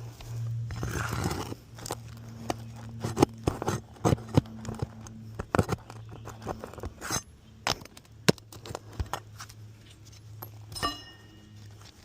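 Footsteps and handling on an asphalt shingle roof: scattered sharp knocks, clicks and scrapes over a steady low hum.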